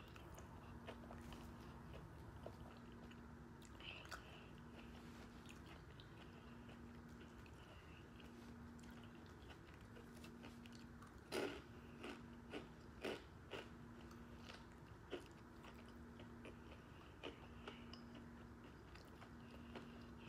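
Quiet close-up chewing of a soft-shell chicken taco with crunchy Takis, with a few sharper crunches around the middle.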